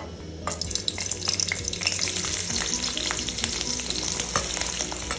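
Chopped onions going into hot oil in a kadai: about half a second in, the oil breaks into a loud, steady sizzle with constant crackling spatters.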